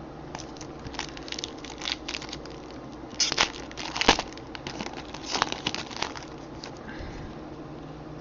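Foil wrapper of a baseball card pack crinkling and crackling as it is torn open and handled, in an irregular run of rustles that are loudest a little past the middle.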